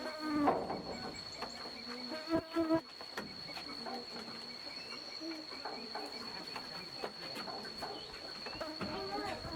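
Steady high-pitched insect trill from a cricket or cicada, with a few short pitched sounds and light clicks over it.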